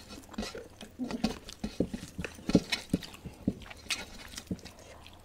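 People eating: wet chewing and lip smacks, a dozen or so short, irregular smacks.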